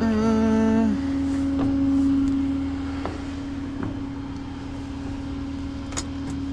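Tow truck running with a steady mechanical hum. A second, lower tone joins it for about the first second and then stops, and a few light clicks follow.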